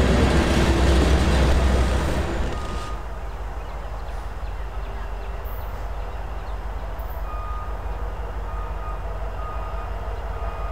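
Freight train rolling past with a heavy low rumble. The noise drops sharply about two and a half seconds in, leaving a fainter, steady rumble.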